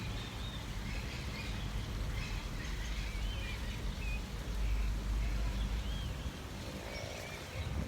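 Short, scattered bird chirps from several birds over a steady low rumble.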